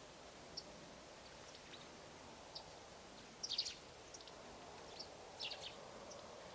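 Eurasian tree sparrows chirping: short, scattered high chirps, with quick flurries about three and a half seconds in and again about five and a half seconds in, over a steady low background noise.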